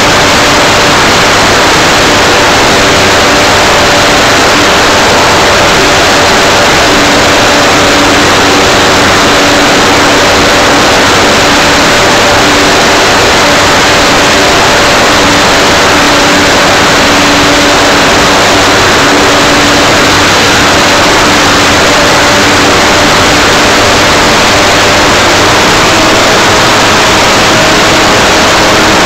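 Electric motor and propeller of an Art-Tech Cessna 182 RC model plane running steadily, heard from a keychain camera on its nose as a loud, unbroken rushing hiss with a faint steady hum underneath.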